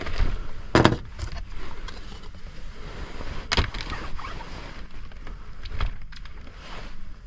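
Handling noise: a few sharp knocks and clicks, the loudest about a second in, with lighter rustling and clicking between them.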